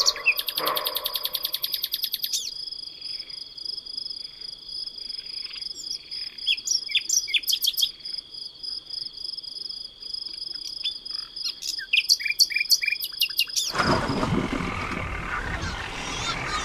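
Insects trilling steadily on a high pitch, with a fast high pulsing insect call for the first two seconds and scattered short bird chirps over them. Near the end the scene switches abruptly to a broad rushing noise.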